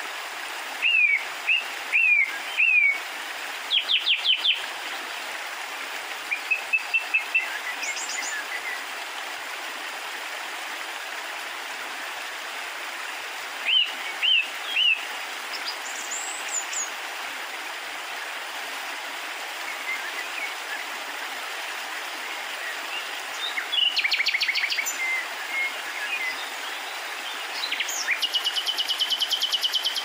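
Birds chirping and calling in short groups of falling notes, with a fast trill near the end, over a steady hiss of background noise.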